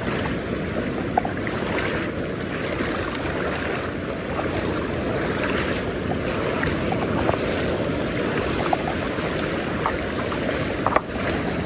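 Steady wind buffeting the microphone over the rush of surf breaking on the shore, with most of the noise low and deep.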